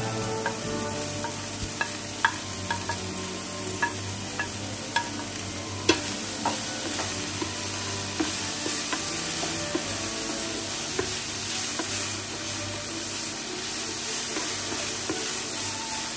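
Egg-and-breadcrumb-coated bread pockets frying in hot oil with a steady sizzle. A few sharp clicks come in the first six seconds or so.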